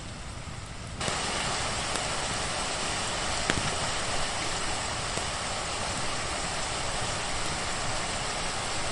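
Steady rain hiss that abruptly gets louder and denser about a second in, turning into an even, heavy wash. A single sharp click comes a few seconds later.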